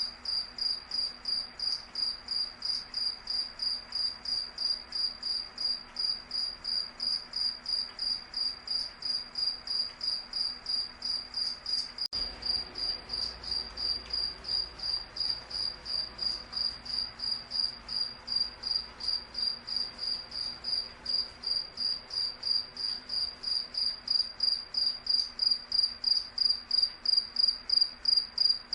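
A cricket chirping steadily in a regular rhythm, about two to three high-pitched chirps a second. A faint low hum lies underneath.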